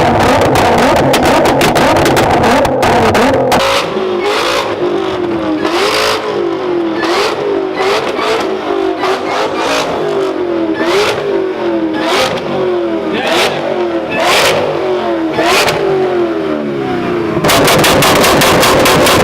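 Car engine revved over and over, its pitch climbing and dropping about once a second, with sharp cracks from the exhaust in between. Music plays for the first few seconds and again near the end.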